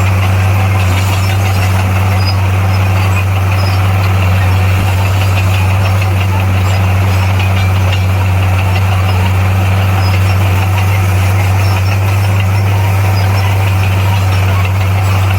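Diesel engine of a heavy earthmoving machine running at a steady speed: a loud, even low drone that does not change.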